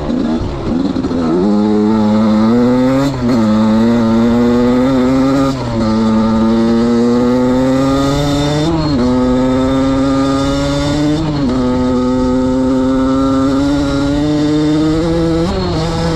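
Suzuki RM85's 85cc single-cylinder two-stroke engine running hard under way, its note dipping and climbing again every two to four seconds as it changes speed.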